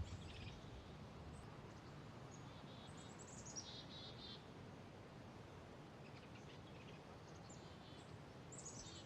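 Faint outdoor ambience with small birds chirping: a few short chirp phrases about three seconds in and again near the end.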